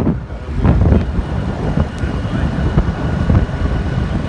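Wind buffeting the microphone of a rider on the move, over a steady rumble of road and traffic noise.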